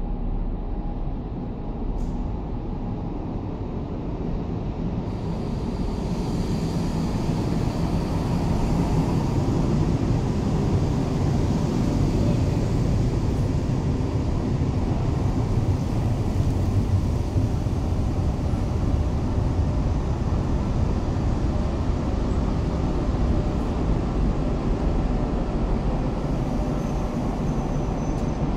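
NSB Class 69 electric train running into an underground platform and slowing to a stop. Its low rumble swells from about five seconds in and stays loud to the end.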